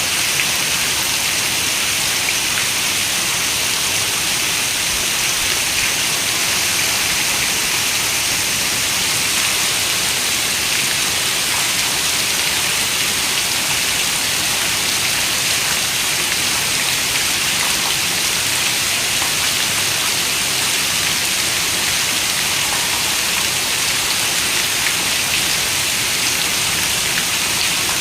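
Steady rain falling, an even hiss of many small drops that holds level throughout.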